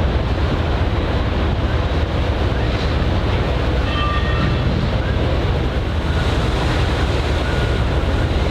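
Steady wind noise on the microphone over harbor water, with a continuous low rumble.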